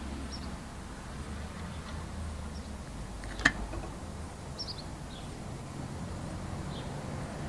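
Steady low hum and hiss of an old tape soundtrack, with faint short bird chirps now and then and a single sharp click about three and a half seconds in.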